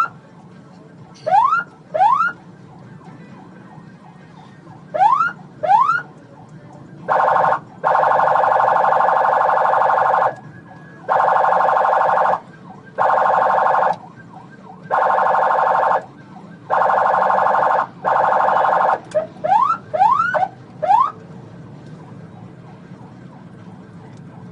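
Police car's electronic siren giving short, quick rising whoops, then five long buzzing horn-tone blasts of one to three seconds each, then another fast run of whoops; low, steady road noise continues underneath after the siren stops.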